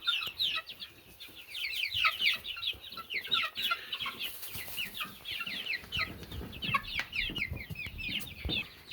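A flock of young growing chickens peeping continuously: many short, high, downward-sliding peeps overlapping one another. A low rumbling noise runs under them for the last few seconds.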